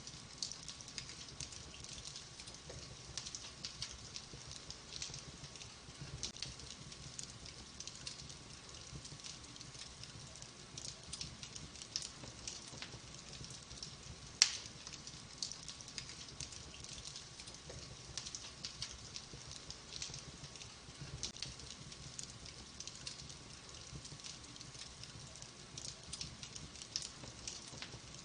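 Burning logs crackling in a wood fire: a steady hiss dotted with many small crackles, and one loud pop about halfway through.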